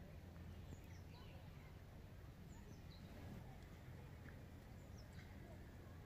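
Faint bird calls: three short runs of high notes, each falling in pitch, about two seconds apart, over a low steady rumble.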